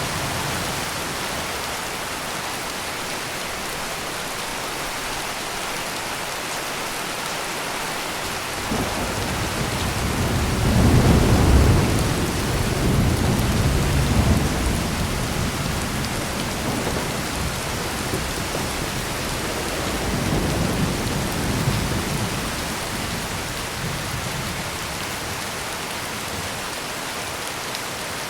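Heavy rain pouring steadily, with a long low roll of thunder building about a third of the way in and loudest near the middle, then a second, weaker rumble of thunder later on.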